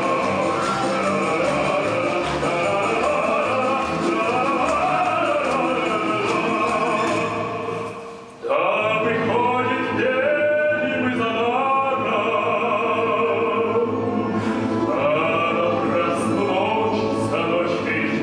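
Orchestra playing live with singing over it. A little past eight seconds in, the sound fades sharply and breaks off, then comes straight back in.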